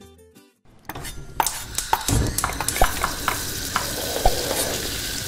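Food sizzling in hot oil, with scattered sharp crackles and clicks. It comes in about a second in, after a moment of quiet.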